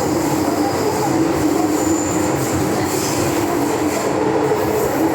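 MTR M-Train metro car running at speed through the Island Line tunnel, heard from inside the car: a steady loud rumble with brief high wheel squeals now and then, one about two seconds in.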